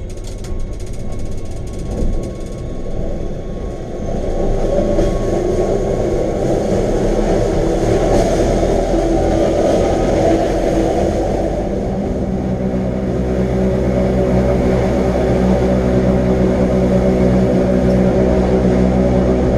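Electric rack-railway train of the Wengernalpbahn running, its motors and gearing giving a steady hum of several tones. The hum builds about four seconds in, then holds steady.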